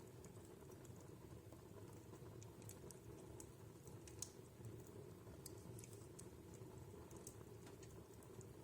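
Wood fire in a fireplace crackling faintly: small irregular snaps and ticks, with one sharper pop about four seconds in, over a steady low hum.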